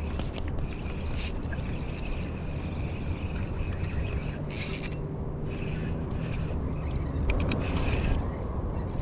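Wind rumbling on the microphone, with several short runs of a high, rattling mechanical buzz. The loudest run comes about four and a half seconds in.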